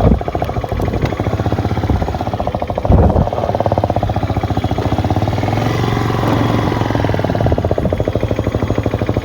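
Motorcycle engine idling close by, its rapid, even firing pulses steady throughout, with a single thump about three seconds in.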